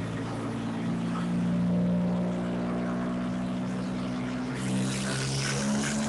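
Porsche 997.1 Turbo's twin-turbo 3.6-litre flat-six running at a steady idle during tuning, a constant drone with an unchanging pitch.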